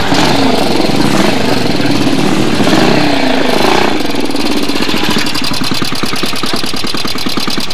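Single-cylinder speedway motorcycle engine running; from about four seconds in it settles into a fast, even beat.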